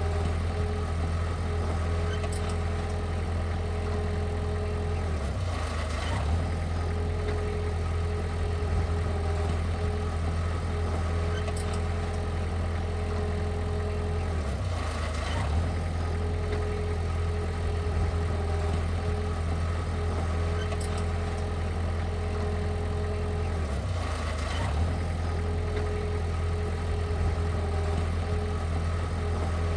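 Heavy diesel engine of earthmoving equipment running steadily, its low drone dipping briefly three times, about every ten seconds.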